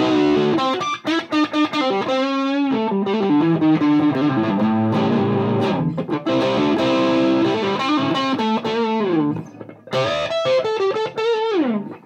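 Gibson Les Paul played through a Mesa Boogie Dual Rectifier on its pushed channel at 100 watts into a Marshall 1960A 4x12 cab, with mildly overdriven chords and riffs. A note with wide vibrato comes about two seconds in, and there are sliding notes near the end, with a short break just before ten seconds.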